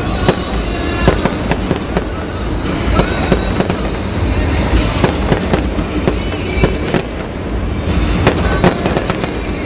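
Aerial fireworks bursting: an irregular run of sharp bangs and crackles, several a second, over a continuous rumble.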